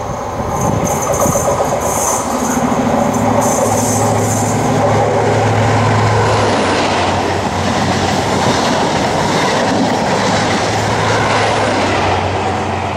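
Class 43 HST diesel power cars of a Network Rail measurement train passing close by: a steady rush of wheels on rail, with the leading power car's engine hum loudest in the first half and the rear power car's engine heard again near the end.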